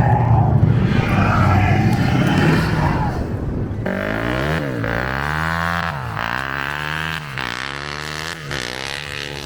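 Motor vehicle engines running on the ice. About four seconds in, the sound changes abruptly to a single engine revving down and up over and over, its pitch dipping and climbing roughly every second and a half.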